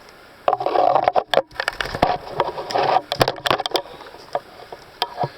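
Leaves, twigs and brush crackling and snapping for about three seconds, as when someone pushes through forest undergrowth, followed by a couple of light clicks near the end.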